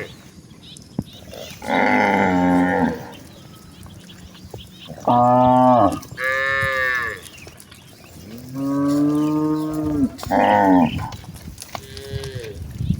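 Cattle mooing one after another: about six long calls of different pitches from several cows in a herd, the last one fainter.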